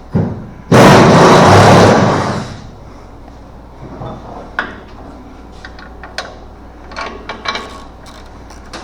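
Air impact wrench run in a loud burst of about two seconds, spinning out a suspension bolt, followed by scattered clinks and knocks of tools and parts.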